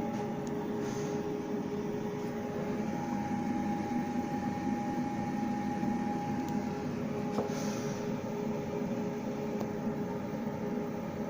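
Spindle of a 6040Z CNC router running a 0.3 mm end mill, engraving the copper of a PCB, with the dust extraction vacuum running. A steady whine over an even rush of air.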